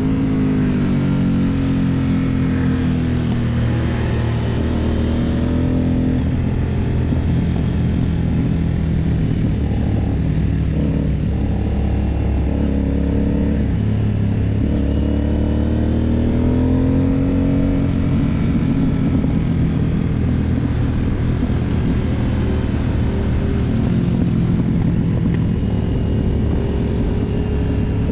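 Aprilia Dorsoduro 750's 750 cc V-twin engine heard onboard while ridden downhill. Its revs rise and fall repeatedly through throttle changes and gear shifts.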